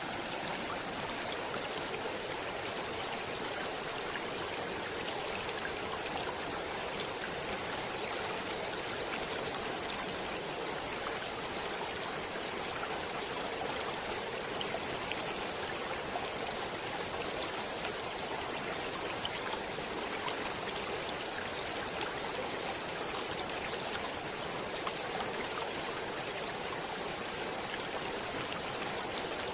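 A stream running steadily over rocks, a continuous even rush of water with fine trickling and splashing.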